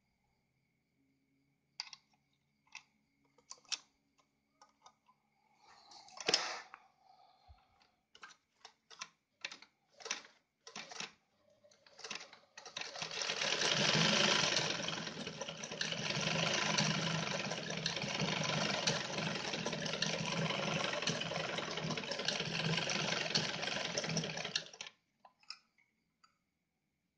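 Yamato 673 zigzag sewing machine: scattered clicks and knocks of the machine being handled, then from about halfway through it sews steadily at speed for about twelve seconds, testing a newly fitted pattern cam, and stops suddenly.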